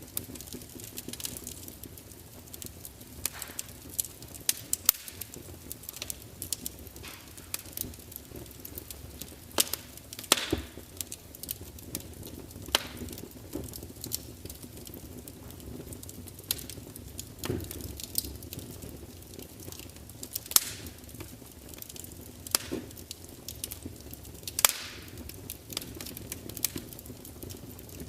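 Wood fire burning in a large fireplace: a steady low rumble of flames with irregular sharp crackles and pops from the burning logs, a few much louder snaps scattered through.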